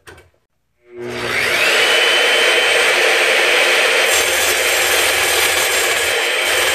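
Evolution Rage3 10-inch sliding miter saw starting up: the motor spins up with a rising whine that settles into a steady high whine. About four seconds in, a lower rumble joins as the blade starts cutting half-inch rebar.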